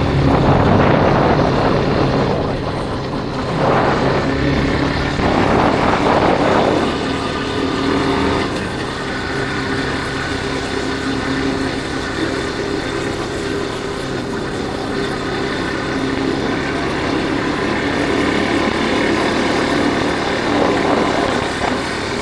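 Yamaha Factor 150 motorcycle's single-cylinder engine running at a steady cruise, heard from on board with wind noise on the microphone. The wind noise is heavier over the first several seconds, then settles.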